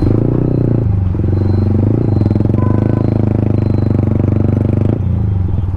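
Yamaha MT-15's single-cylinder engine through an aftermarket Akrapovic exhaust, pulling away under throttle. The note dips briefly about a second in and again at two seconds, then eases off near the end as the throttle closes.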